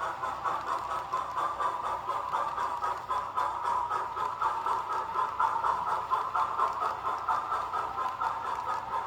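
HO-style model steam locomotive, a Union Pacific 844 FEF-3, running along the layout track with its train: a steady whirring with a fast, even pulsing.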